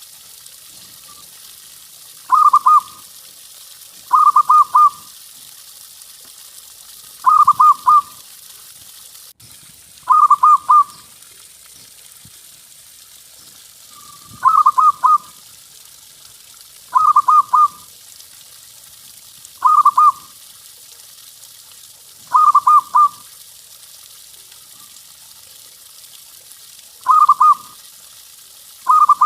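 Zebra dove (perkutut) cooing: short, rapidly pulsed coo phrases repeated about every two to three seconds, over a faint steady hiss.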